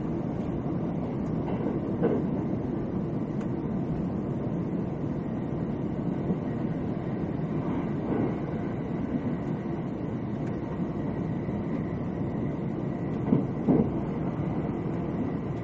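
Running noise inside a limited express Thunderbird electric train at speed: a steady low rumble of wheels on the track, with a few short knocks, two of them close together near the end.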